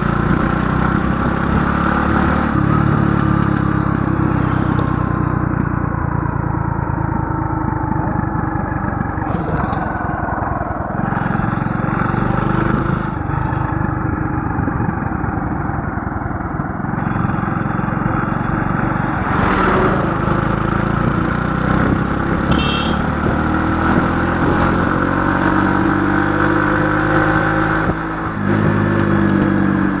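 A motor vehicle's engine running steadily, its pitch slowly rising and falling with the revs, with a short drop near the end.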